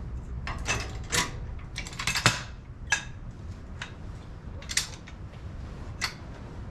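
A jack lowering a zero-turn mower, giving a string of irregular metallic clicks and creaks over a low steady hum.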